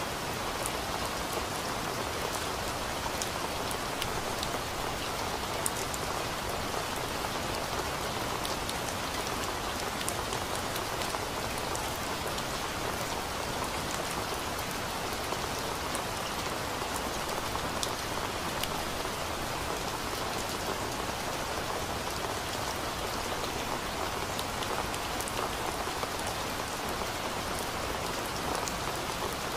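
Steady rain: an even, unbroken hiss with scattered individual drops ticking through it.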